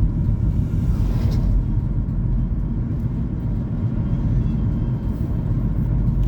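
Steady low road and engine rumble of a moving car, heard from inside the cabin, with a brief rush of noise about a second in.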